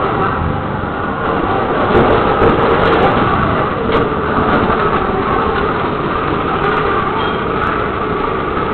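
Loud, continuous vehicle noise, a steady rumbling din of motor traffic or a train, with a few faint clicks about two to three seconds in.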